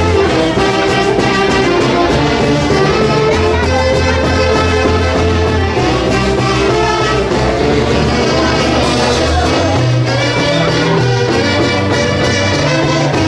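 A live Peruvian folk orchestra plays an instrumental santiago tune. Horns carry the melody over a steady, pulsing bass line.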